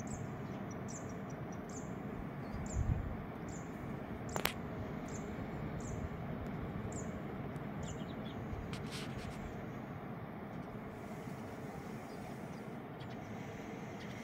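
A small bird repeats a short, high chirp about once a second, stopping about halfway through. Underneath is a steady outdoor rush. A low thump comes near three seconds in and a sharp click soon after.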